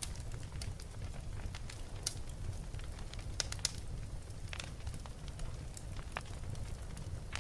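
Wood fire in a fireplace burning with a steady low rumble and irregular sharp crackles and pops, a quick cluster of louder pops about three and a half seconds in.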